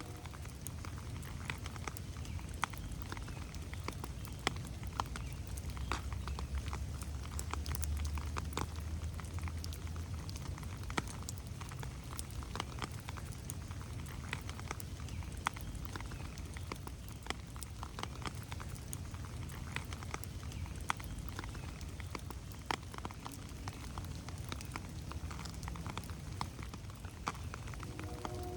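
Steady rain in a forest, with many separate drops ticking irregularly on leaves over a low rumble that swells a little about six to ten seconds in.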